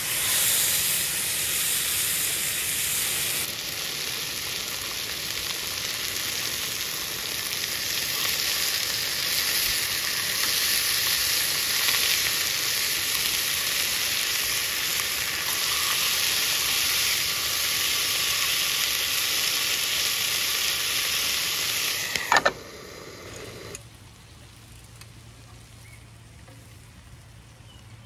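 Chicken thighs sizzling steadily in a hot cast-iron skillet as they fry. About 22 seconds in there is a sharp knock and the sizzling stops, leaving a quieter low hum.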